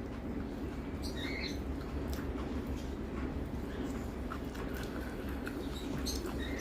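Close-up eating sounds: short wet clicks and squeaky lip smacks while chewing a mouthful, over a steady low hum.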